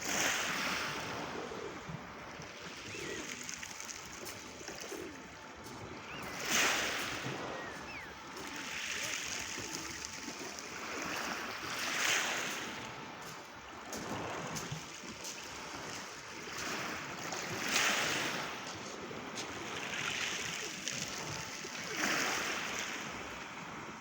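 Small Black Sea waves breaking and washing on the shore, swelling and falling back, with the biggest surges about every five to six seconds.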